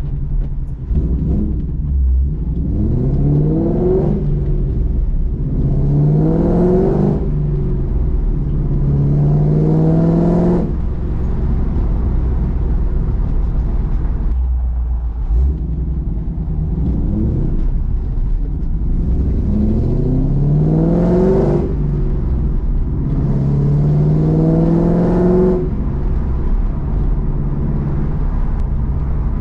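Roush Mustang engine accelerating through the gears, heard from inside the cabin. The pitch climbs and drops back at each upshift, about three gears in a row. Then it runs steadier for a few seconds, and a second run through the gears starts about halfway through.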